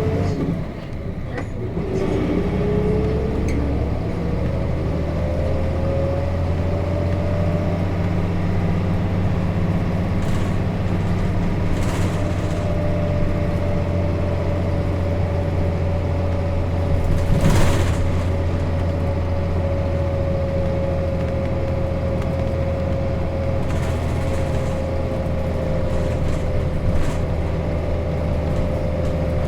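Interior running sound of a Nissan Diesel KC-RM211GSN route bus with its FE6 diesel engine and five-speed manual gearbox: a gear change right at the start, with a brief dip in level, then the engine pitch climbs for several seconds and settles into a steady cruise over a deep rumble. A sharp knock stands out about 17 seconds in.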